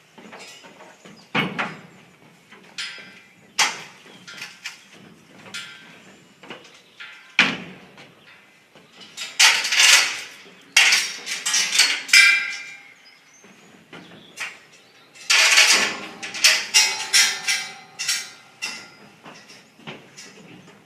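Irregular bangs, knocks and clatter, like metal gates and panels being handled around cattle, with louder runs of clatter about halfway through and again near three-quarters of the way.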